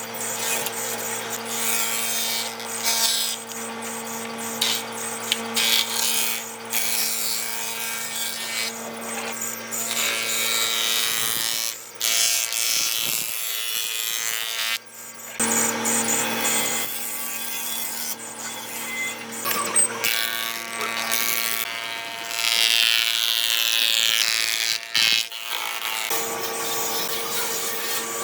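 Electric woodworking power tools running and working wood: a steady motor hum under rasping, rubbing noise of the cut or sanded wood, with the sound changing abruptly a few times.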